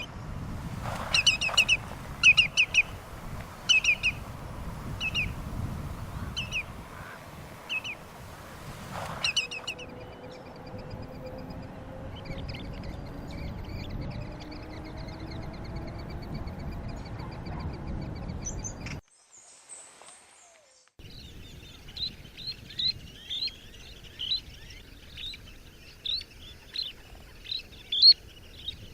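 Wild birds calling, several kinds in turn: first a series of short, harsh calls about once a second, then fainter high trilling, then a run of quick, high chirps.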